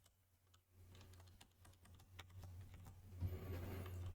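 Faint light clicks and taps over a low steady hum, becoming louder and busier near the end.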